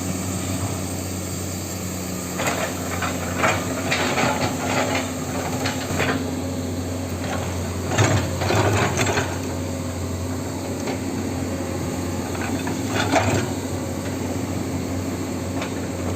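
Huina 1550 RC hydraulic excavator's pump motor humming steadily, with bursts of clatter and scraping from the arm and bucket working, loudest about eight seconds in.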